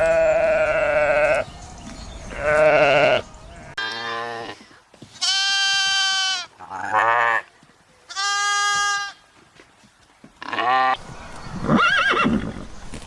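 Sheep and lambs bleating: about eight separate calls of different pitches, some high and held steady.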